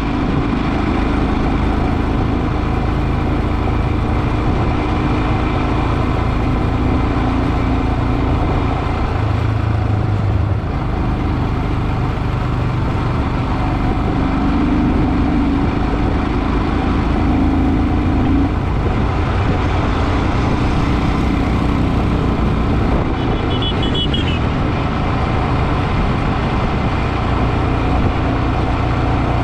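Motorcycle engine running steadily on the move, with road and wind noise. A short high chirp sounds about three-quarters of the way through.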